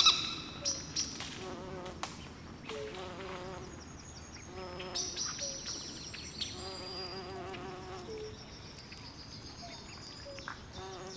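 Swamp night chorus: frogs calling in short repeated croaks and wavering trills, with high-pitched insects chirring over them. A loud short call stands out at the very start.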